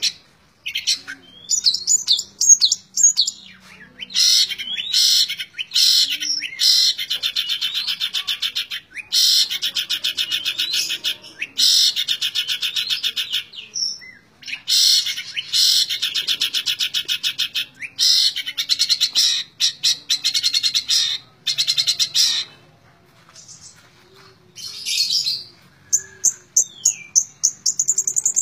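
Long-tailed shrike (cendet) singing in rapid, machine-gun-like runs of evenly spaced notes, each run lasting one to several seconds with short breaks between. This is the 'tembak ngebren' rapid-fire song style prized in cendet.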